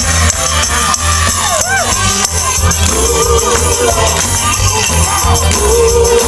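Loud live gospel praise music: a band with a steady pulsing bass, a tambourine shaking throughout, and voices singing long gliding lines.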